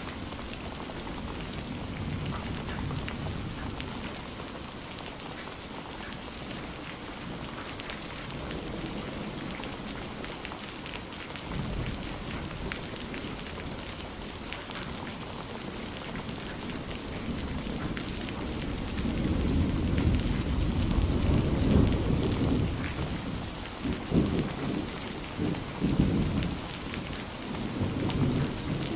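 Steady rain falling, with thunder rumbling low underneath that builds about two-thirds of the way through and rolls in several swells near the end.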